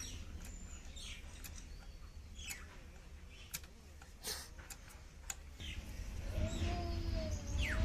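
Small birds chirping in short, quick falling notes over a low rumble. Near the end a wavering, held tone joins in as the sound grows louder.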